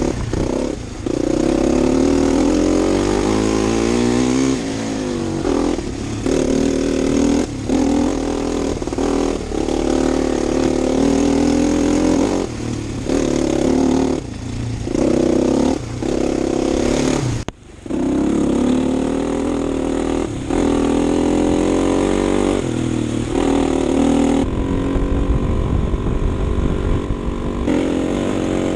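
Husqvarna TE250's single-cylinder four-stroke engine being ridden, its pitch rising under throttle and breaking off over and over as gears are changed and the throttle is rolled off. The sound cuts out briefly about 17 seconds in.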